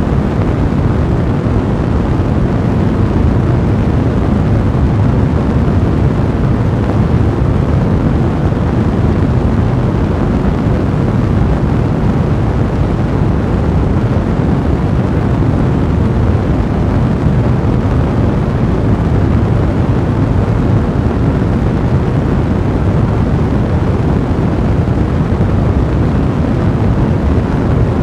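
Fire blazing in a fireplace: a steady, even low rush of flames.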